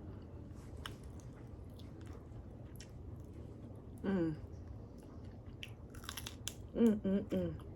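A person biting and chewing crispy air-fried chicken wings close to the microphone, with scattered small crunches. A few short vocal sounds come about halfway through and three more in quick succession near the end.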